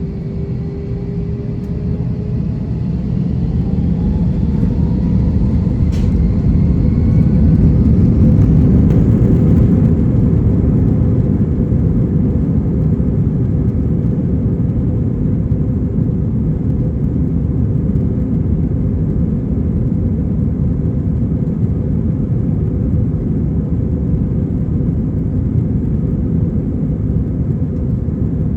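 Airbus A321-231's IAE V2500 turbofans heard from inside the cabin, spooling up to takeoff thrust: rising whining tones over a growing roar for the first several seconds, then a steady loud roar. A single sharp click about six seconds in.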